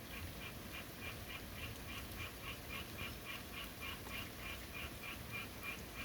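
Steady rain with an animal calling over it in a fast, even run of about twenty short notes, some three to four a second, which stops near the end.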